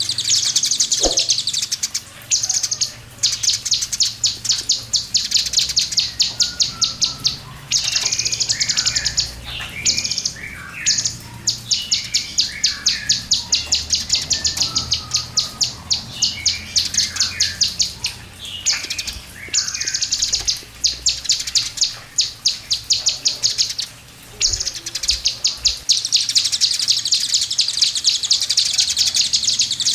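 Oriental magpie-robin (kacer) singing: long runs of fast, high, rapidly repeated notes, broken by short pauses and lower whistled warbling phrases.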